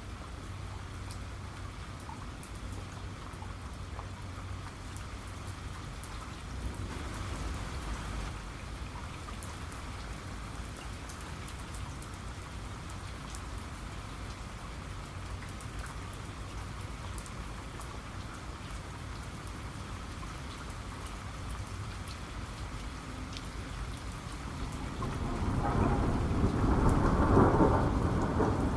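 Steady heavy rain with scattered sharp drop ticks. Near the end, a roll of thunder swells up and rumbles louder.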